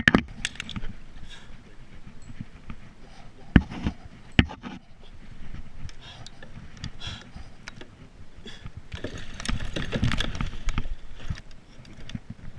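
Sharp knocks against a kayak, one at the start and two more about three and a half and four and a half seconds in, then a rough stretch of splashing about nine to eleven seconds in as a large northern pike is fought close beside the kayak.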